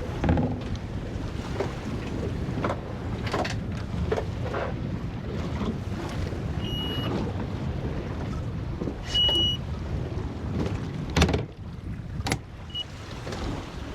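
Steady wind and sea noise aboard a small boat in choppy water. Two short electronic beeps in the middle and a brief third near the end, with two sharp knocks shortly before the end.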